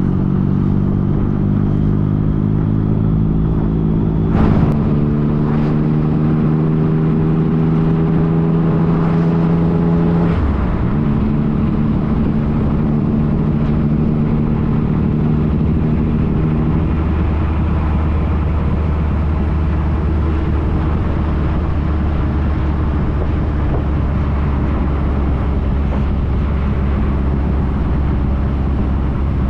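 2015 Yamaha FJ-09's 847 cc inline three-cylinder engine running on the road under way, with steady wind rush. The engine note changes pitch twice, about four and a half and ten and a half seconds in, with a short click at the first change.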